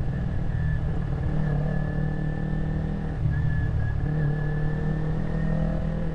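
Kawasaki Ninja 250R's parallel-twin engine running steadily at low revs while the bike filters slowly through stopped traffic, heard from the helmet camera, with a faint steady high-pitched whine above it.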